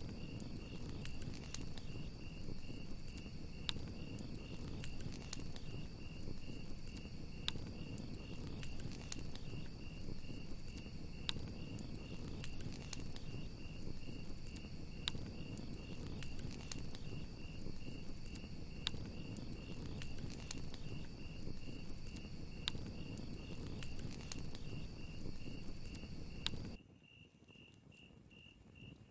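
Campfire crackling, with scattered sharp pops over a steady low rush, and crickets trilling in a fast, even pulse. About two seconds before the end the fire cuts off suddenly and only the crickets go on, quieter.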